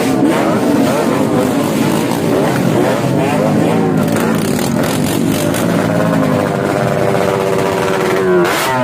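Motorcycle engine running loudly through its exhaust, with the pitch wavering and climbing slowly, then revved up quickly near the end.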